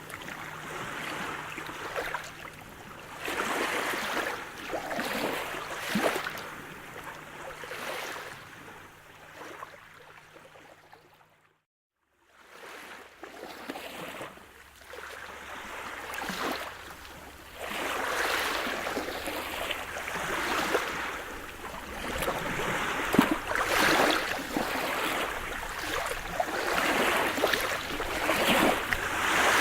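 Sea surf: waves breaking and washing on the shore in uneven swells, louder in the second half. About twelve seconds in the sound drops out completely for under a second, where one recording is spliced to the next.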